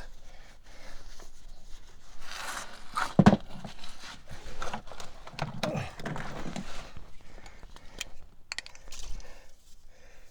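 Rustling and scraping of a part being wiped clean by hand, with a sharp knock about three seconds in and a few light clicks later.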